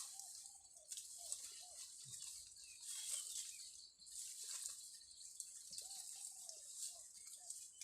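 Outdoor rural ambience: a bird gives a short series of arched, rising-and-falling calls twice, a few seconds apart, over a steady, faint high-pitched insect hiss.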